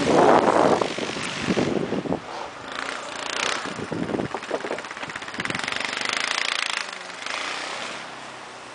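Snowblower engine running while clearing snow, with hissing rushes at times.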